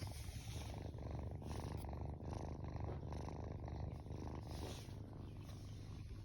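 Tortoiseshell kitten purring steadily.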